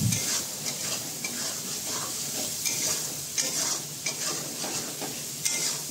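Onion-garlic masala paste sizzling as it fries in oil in a metal kadai, stirred with a metal spatula that scrapes the pan in repeated strokes over a steady sizzle.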